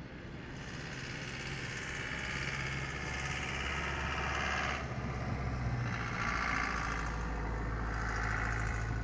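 An engine running steadily, its low hum shifting slightly in pitch, under a rushing hiss that swells and fades a few times.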